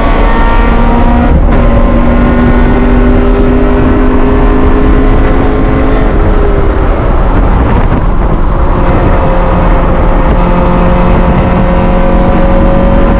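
Honda B16A 1.6-litre DOHC VTEC four-cylinder in a CRX, lapping a race track. The engine pulls hard, drops in pitch at an upshift about a second and a half in, and holds a nearly steady note. Around six seconds in the note breaks up as the driver comes off the throttle, then it climbs slowly again from about nine seconds.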